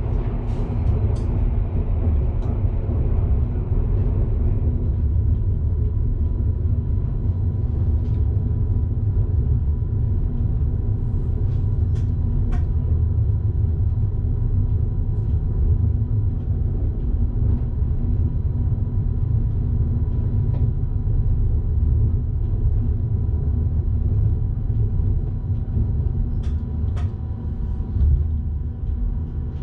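Electric train running on the line, heard inside the driver's cab: a steady low rumble with faint steady hums and scattered sharp clicks. A hiss over the rumble fades out during the first few seconds.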